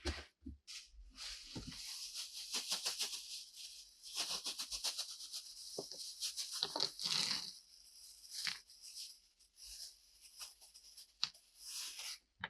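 Dense crinkly rustling with many small crackling ticks, starting about a second in and stopping abruptly near the end.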